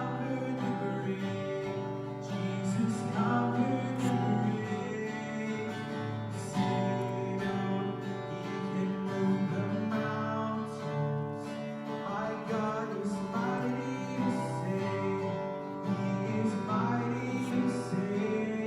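Live worship band music with acoustic guitar strumming and some singing, sustained chords held throughout.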